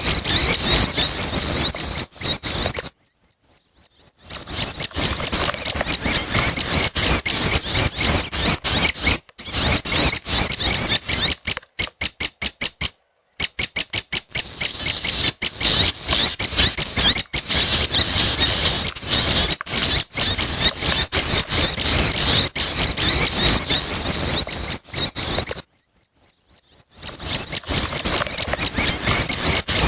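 Young prinias (prenjak) calling: a dense run of rapid, high, squeaky chirps. It breaks off briefly twice, once about three seconds in and once near the end.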